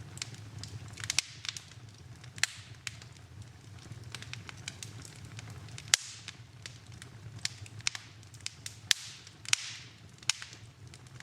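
Wood fire in a fireplace crackling, with irregular sharp pops and snaps over a low steady rumble, and a brief hiss about nine seconds in.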